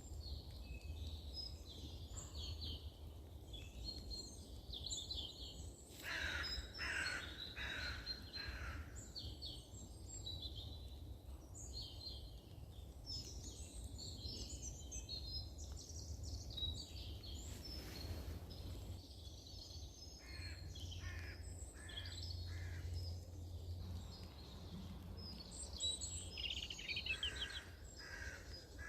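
Songbirds chirping and singing, with crows cawing in short series of three to five harsh calls about six seconds in, again about twenty seconds in, and near the end. A steady low rumble runs underneath.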